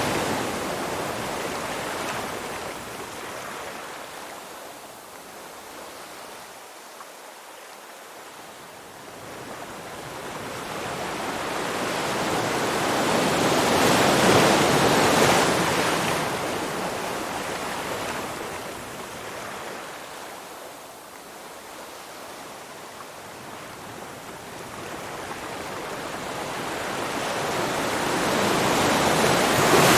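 Ocean surf: waves swell up and break, one near the middle and another at the end, with a softer wash between them.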